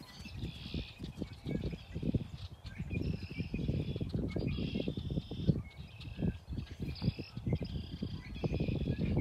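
Birds singing short repeated phrases, about one a second, over a low, uneven rumble of outdoor noise.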